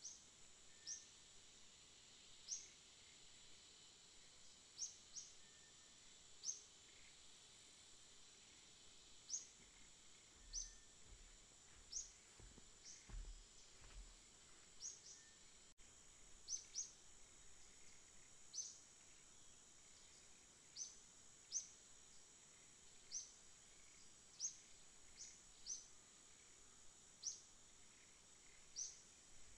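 A small bird repeating a single short, high chirp every second or two, irregularly, over a faint steady high-pitched hiss.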